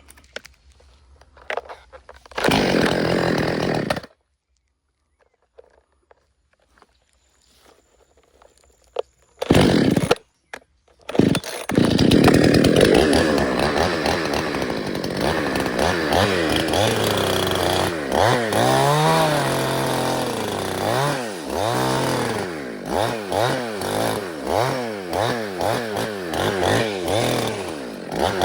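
Two-stroke chainsaw with short loud bursts early on, then running continuously from about twelve seconds in, revved up and down over and over, about once a second near the end.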